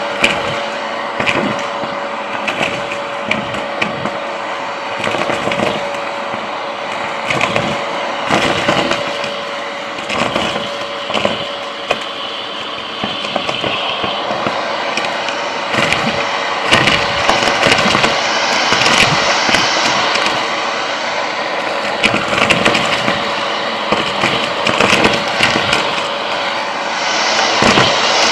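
Vacuum cleaner running steadily with a constant motor whine, crackling and clicking as debris rattles up through the nozzle.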